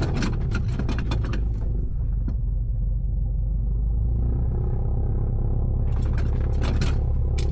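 Seat belt buckles and straps clicking and rattling in a light aircraft's cockpit, in two spells near the start and the end, over a steady low hum.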